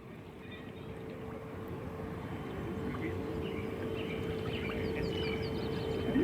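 Outdoor ambience of scattered bird chirps over a steady low rumble and hum, with a quick run of short, falling bird notes about five seconds in; the whole grows gradually louder.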